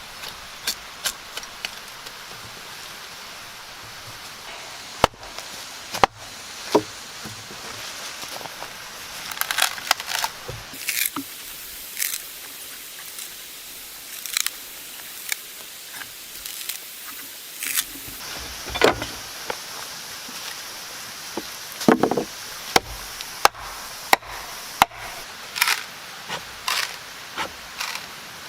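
Irregular knocks, taps and scrapes of hand work on pallet wood, some strikes sharp and loud, over a steady background hiss.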